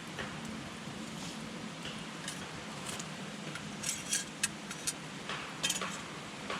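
Wood campfire burning with irregular crackles and sharp pops over a soft steady hiss, a quick run of louder snaps about two-thirds of the way through.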